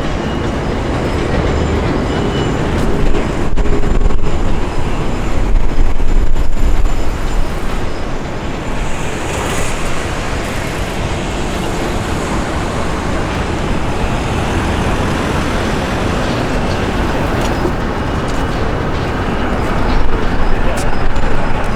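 Thameslink electric commuter train running across a railway bridge over the river, mixed with a steady wash of city traffic. It swells louder about three to seven seconds in and again near the end.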